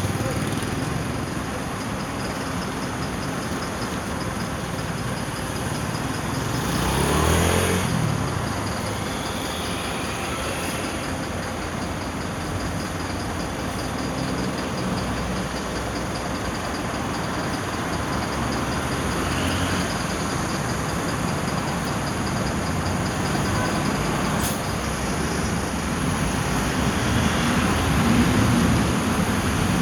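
Continuous road and traffic noise from driving through city streets, with a louder vehicle passing about seven seconds in, its engine pitch falling as it goes by.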